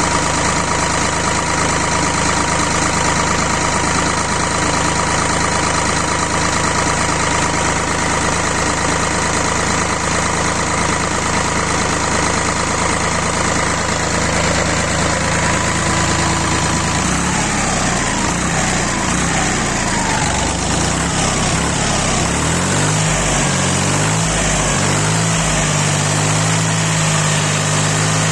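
D-130 diesel engine running at a steady speed, then about two-thirds of the way in its speed begins to change, sweeping up and down before settling at a higher steady speed near the end.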